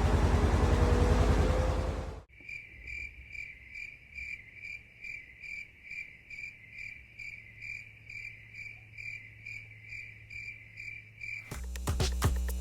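For about two seconds a vehicle engine runs with a steady pulse and rushing noise, then it cuts off abruptly. After that a cricket chirps steadily, a little over two chirps a second, until music starts near the end.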